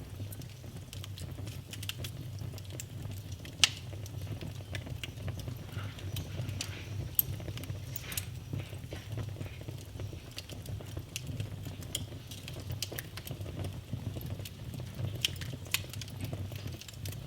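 Wood fire burning in a fireplace: irregular crackles and sharp pops over a steady low rumble, with a louder pop about three and a half seconds in and another about seven seconds in.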